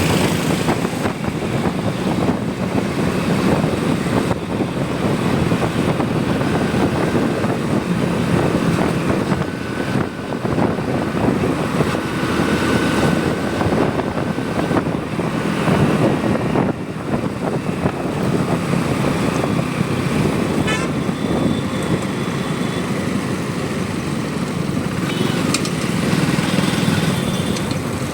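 Motorcycle engine running steadily while riding, with road and wind rush and passing traffic. A few brief vehicle horn toots sound in the traffic.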